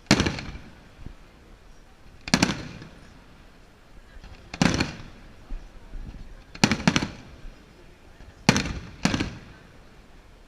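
Fireworks shells bursting overhead: seven loud bangs, roughly one every two seconds with two quick pairs near the middle and end, each trailing off in a short rumbling echo.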